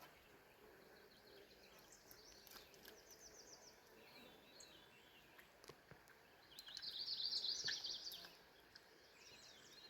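Faint birdsong over quiet outdoor background: several phrases of quick repeated high notes, the clearest and loudest about seven seconds in.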